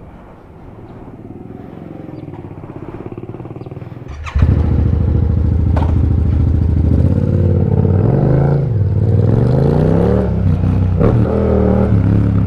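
Yamaha MT-07's parallel-twin engine running through an Akrapovic exhaust while the bike is ridden. It grows louder over the first few seconds, gets suddenly louder about four seconds in, then the engine speed rises and falls.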